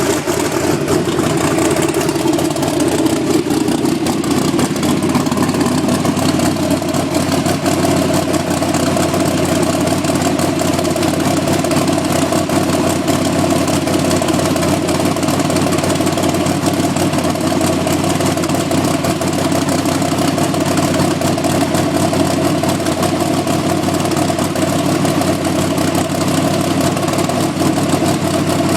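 Freshly built twin-turbocharged V8 engine running at a steady idle on its second fire-up.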